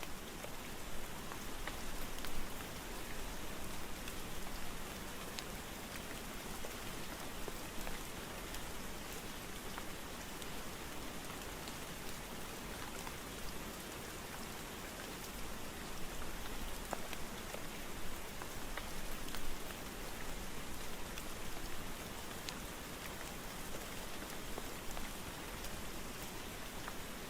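Steady rain falling: an even hiss with scattered louder drops tapping.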